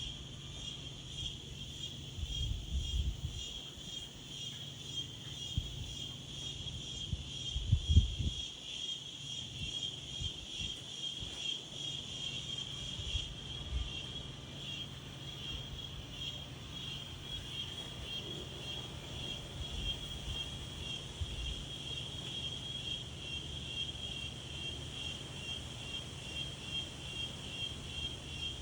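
A steady chorus of insects trilling in fast, even pulses, one higher voice dropping out about halfway through. Wind gusts rumble against the microphone throughout, with the strongest gust about eight seconds in.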